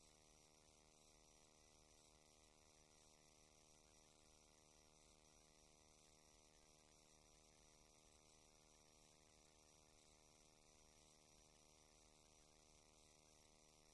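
Near silence: only a faint, steady electrical hum and hiss from the sewer camera's recording system with its microphone switched off.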